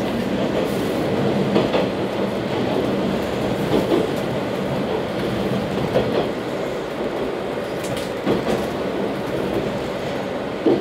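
Passenger train running at speed, heard from inside the carriage: a steady rumble of wheels on rail, with a few knocks scattered through as the wheels pass over rail joints.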